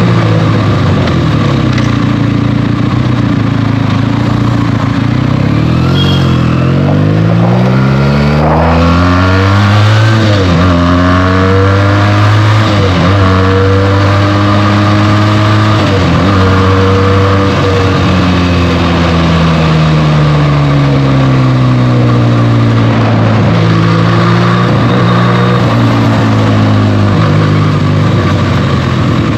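Benelli TNT 300's parallel-twin engine through its stock exhaust, heard from the bike while riding. The pitch climbs and drops back three times as it pulls up through the gears, then falls away slowly as the bike slows, with a rush of wind throughout.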